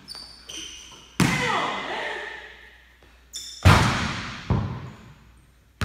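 Basketball bouncing about four times on a hardwood gym floor, each bounce echoing around the large hall, with short high squeaks in between.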